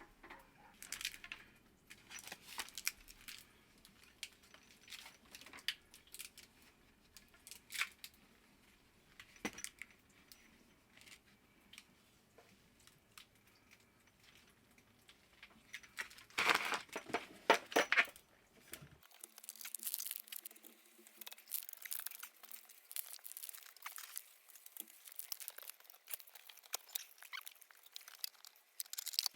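Hands handling parts and tools during a water-heater repair: scattered clicks, scrapes and crinkling, with a louder flurry of knocks and scrapes about two-thirds of the way through.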